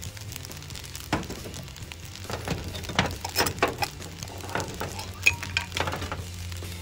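Kitchenware clinking and knocking: a scattered run of light metal and ceramic clinks that starts about a second in, thickens around the middle and ends with a sharper knock a little past five seconds.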